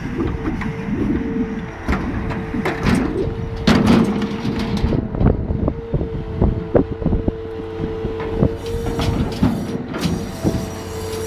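Scania V8 timber truck running under a steady whine while its loader crane handles logs, with repeated wooden knocks and clunks, the loudest about four seconds in.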